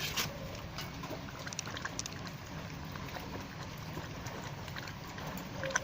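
Dog lapping rainwater: small irregular wet splashes and clicks over a steady low rumble.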